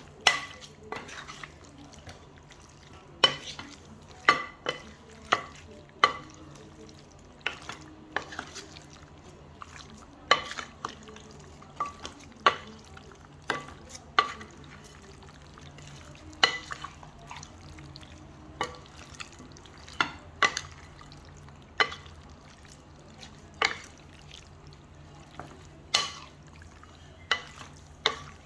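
Chicken thighs being mixed in a bowl: irregular sharp clinks and knocks against the bowl, roughly one a second, each ringing briefly, over a faint steady low hum.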